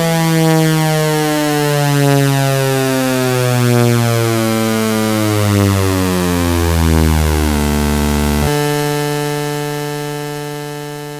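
Two-chopper mechanical outdoor warning siren winding down, its two-tone chord sliding steadily lower and swelling in loudness about every second and a half. About 8.5 s in, the lowest tone cuts off abruptly and a steady higher tone fades away.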